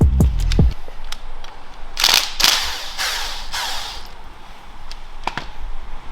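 Background music that stops within the first second, then several short, loud hissing bursts and a few sharp clicks: workshop tool noise during removal of the 350Z's turbo kit.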